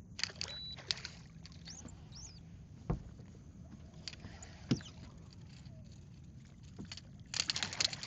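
Scattered knocks and clicks of handling aboard a small fishing boat, with two heavier thumps and a dense clattering burst near the end.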